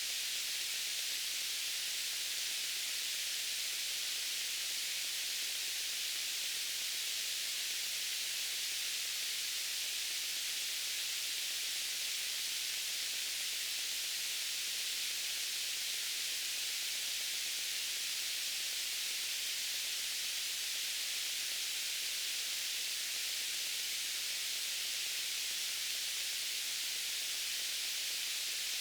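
Steady white noise: an even, high hiss that does not change.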